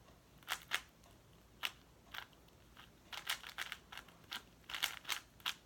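4x4 speed cube being turned by hand: irregular plastic clicks and short clacks of the layers turning, quicker and closer together in the second half.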